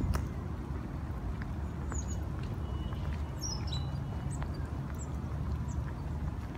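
Rain falling, with scattered drops ticking over a steady low rumble; a few short, high bird chirps come through about two and three and a half seconds in.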